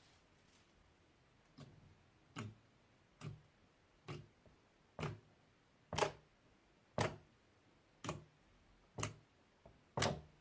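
Slime being worked by hand, giving a short, sharp pop about once a second, ten times in a row.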